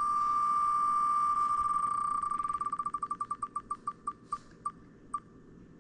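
Electronic ticking of a spin-the-wheel picker: ticks so fast they merge into one steady beep, then slowing and spreading further apart as the wheel runs down to a stop.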